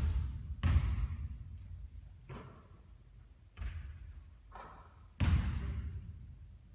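A basketball thudding on a court, about five irregular impacts each with a short ringing tail, the loudest near the start and about five seconds in.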